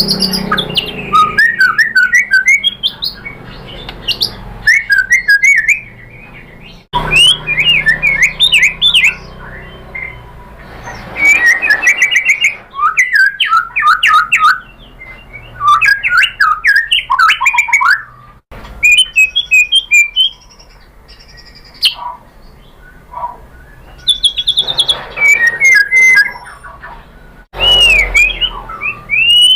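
White-rumped shama (murai batu) singing loud phrases of quick, sliding whistled notes with short pauses between them, abruptly cut in places. This is a lure recording played to provoke a captive shama into answering and singing.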